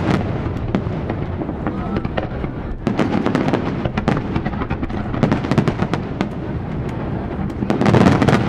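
Aerial fireworks display: a rapid, continuous run of shell bursts and crackles, growing denser and louder near the end.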